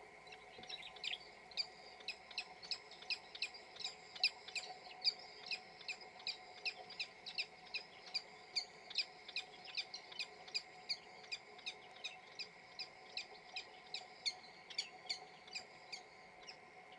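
Peregrine falcon calling a long, even series of short, sharp notes, about two and a half a second, over a steady faint hum. This is the courtship calling of a peregrine calling out to its mate.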